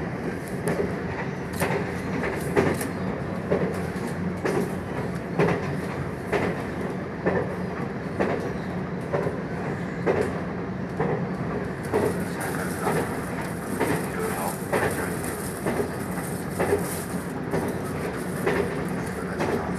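Local passenger train running at speed, heard from inside the carriage: a steady rumble with repeated clicks and knocks of the wheels over the track. A higher hiss joins about twelve seconds in.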